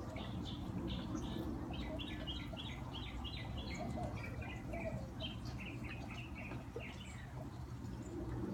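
A songbird singing a long run of short, quick repeated notes, several a second, that stops about seven seconds in. Under it runs the steady splashing of a garden fountain.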